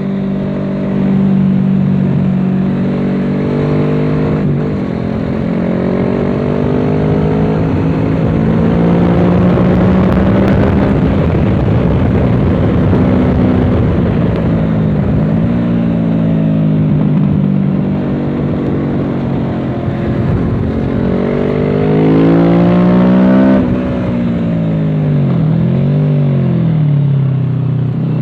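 Kawasaki Z650 parallel-twin engine through an aftermarket Dominator exhaust, heard on board while riding on a race track, its pitch rising and falling repeatedly as it accelerates and backs off, with a sudden drop about twenty-three seconds in. A rushing wind noise runs under it, strongest about ten seconds in.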